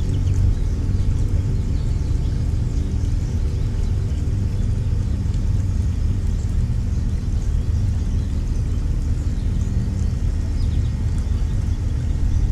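Steady low engine rumble with a faint even hum, with faint, brief, high bird chirps.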